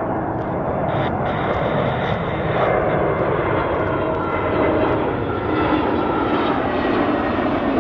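Jet airliner engines, a loud steady rush with faint whining tones, as the aircraft comes in to land.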